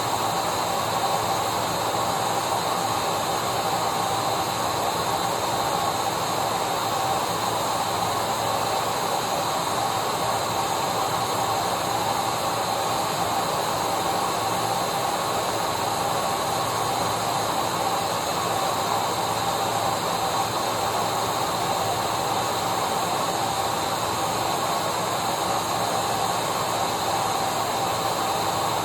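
Vacuum cleaner running steadily: a continuous rush of air with a constant whine on top, never changing in speed or level.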